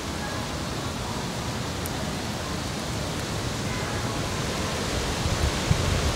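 Steady rushing outdoor noise with no clear pitch, with low rumbling gusts building near the end, the kind that buffets an open microphone.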